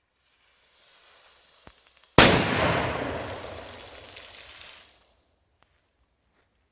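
Funke Petarda 5 firecracker: its fuse hisses faintly for about a second, then a single loud bang a little over two seconds in, with an echoing tail that dies away over the next couple of seconds.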